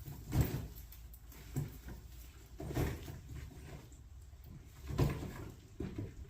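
Irregular knocks and rustles, about five in a few seconds, over a low background.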